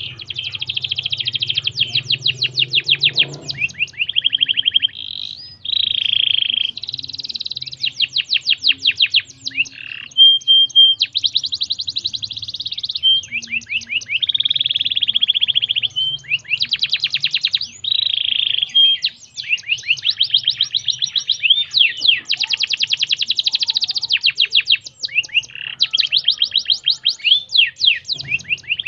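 Canary singing a long, continuous song of rapid trills, each phrase a fast run of repeated notes, switching every second or two to buzzy rolls and a few short clear whistles. A faint low hum lies underneath.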